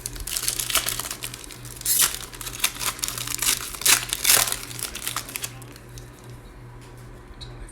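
Plastic wrapper of a trading card pack crinkling and tearing as it is torn open and peeled off the cards, in a dense burst of crackling that dies down after about five seconds.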